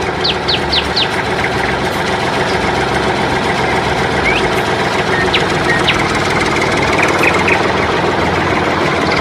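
Small motor of a DIY miniature tractor running steadily, with birds chirping now and then.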